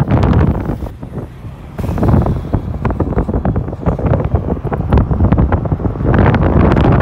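Wind buffeting the microphone on a moving motorcycle taxi, a loud rumbling rush that eases for about a second near the start and then picks up again.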